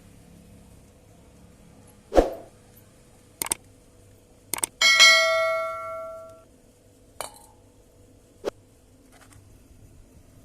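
Metal knocks and clanks, then one struck metal piece ringing for about a second and a half, a few seconds in.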